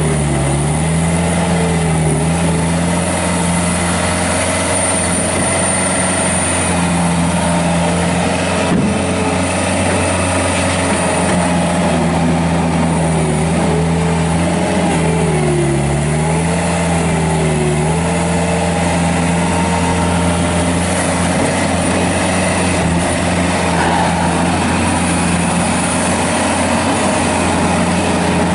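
2007 Bobcat S185 skid steer loader's diesel engine running steadily at high revs, its pitch sagging briefly twice, just after the start and about halfway through, as the machine is worked.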